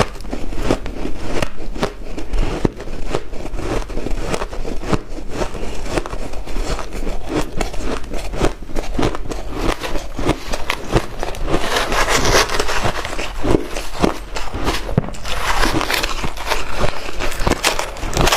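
White ice being crunched and chewed close to the mouth: a dense, unbroken run of crisp cracks and crunches, with harsher grinding stretches about two-thirds of the way in and again near the end.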